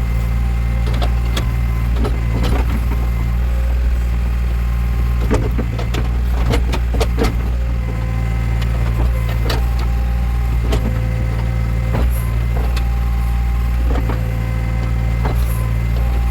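Backhoe loader's diesel engine running steadily under work, with scattered knocks and clanks from the digging gear and a mid-pitched whine that comes and goes.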